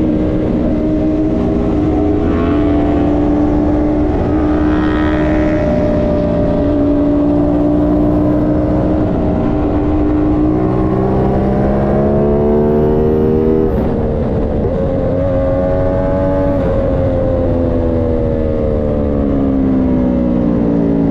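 Aprilia Tuono 660's parallel-twin engine pulling hard at speed on track, over heavy wind rush. The revs climb, drop sharply at a gear change about two-thirds of the way in, climb again, then fall away over the last few seconds as the bike slows.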